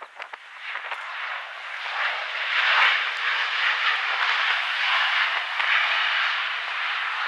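Jet airliner passing close on its landing approach: a rushing engine noise that builds over the first few seconds, then holds steady and loud.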